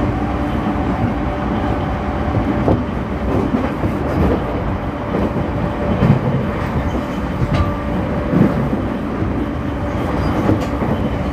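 A JR East E231 series commuter train (refurbished unit) running at speed, with a steady hum of motor tones under the rolling noise of the wheels. Knocks from the wheels over rail joints come every couple of seconds.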